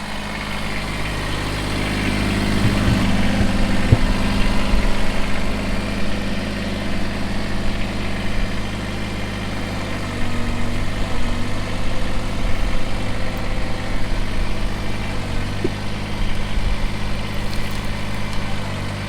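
Kubota BX23s compact tractor's three-cylinder diesel running steadily while its backhoe works, with a few short knocks about 4 seconds in and again near the end.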